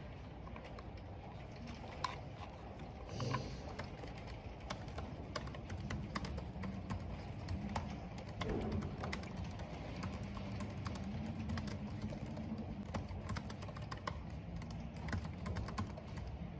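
Computer keyboard being typed on, with quick, irregular keystrokes all the way through, over a low steady rush of wind and rain.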